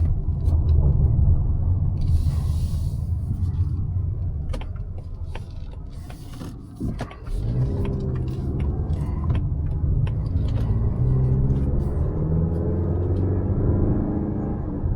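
Mazda CX-5's naturally aspirated 2.5-litre four-cylinder petrol engine and road rumble while driving; about halfway through, the engine note gets louder and climbs steadily in pitch as the car accelerates.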